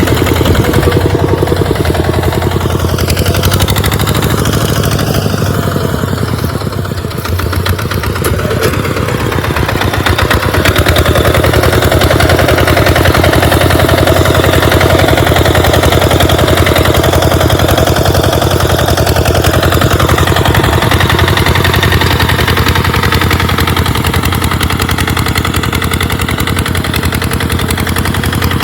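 Tractor engine running under load while plowing sand, with a rapid, even firing beat. It eases off briefly about six to eight seconds in, then picks back up and runs steadily.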